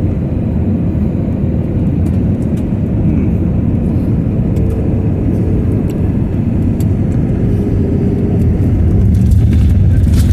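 Airliner cabin noise: a steady low rumble of the engines and airflow heard from a passenger seat, growing a little louder near the end.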